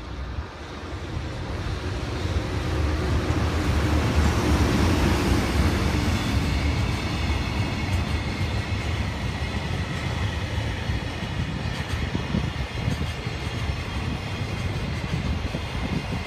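JR Freight EH500 electric locomotive passing at speed, followed by its long train of container wagons rolling by. The sound builds over the first few seconds as the locomotive draws near and is loudest about four to six seconds in, then settles into the steady rolling rumble of the wagons.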